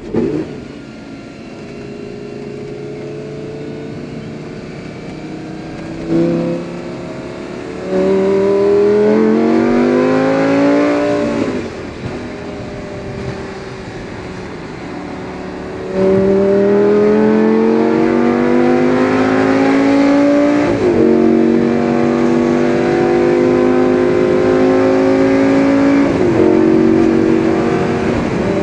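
Lamborghini Gallardo's V10 engine accelerating through the gears at part throttle. Its pitch climbs in each gear and falls back at each upshift: first a short pull from about 8 seconds, then a longer pull from about 16 seconds with upshifts near 21 and 26 seconds.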